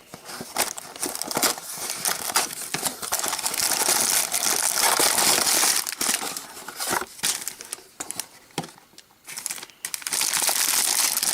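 LEGO set box being opened and its plastic parts bags crinkling as they are handled, in irregular rustling bursts with small clicks. A quieter spell comes about eight seconds in.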